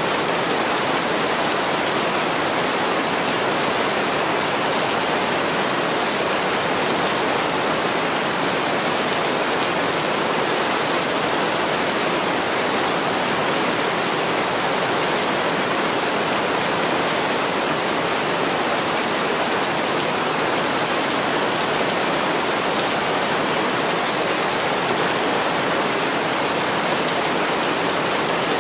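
Heavy rain falling on a window: a steady, even hiss with no breaks.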